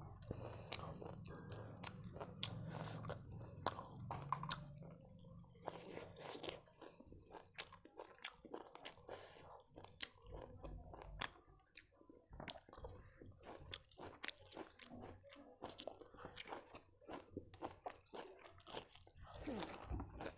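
Close-up chewing and mouth smacking of a person eating rice and cooked leafy greens by hand, many short irregular clicks of lips and teeth.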